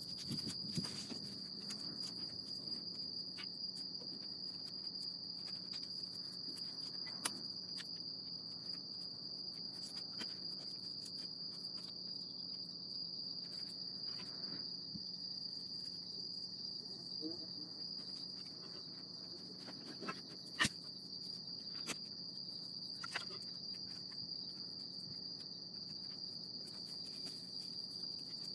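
Crickets chirping in a steady, high-pitched trill, with a few sharp pops standing out now and then.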